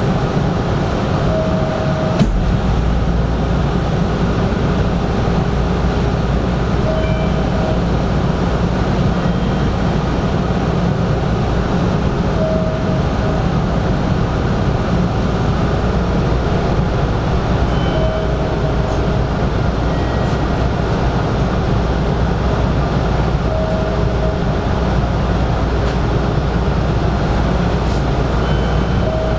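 Hanshin 5500 series electric train giving a steady rumble, which deepens about two seconds in after a click. A short faint tone repeats about every five and a half seconds.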